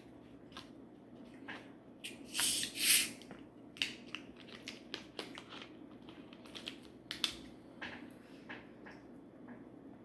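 Close-up eating sounds: chewing with many small mouth clicks and smacks, and a louder, noisier burst of crunching about two and a half seconds in.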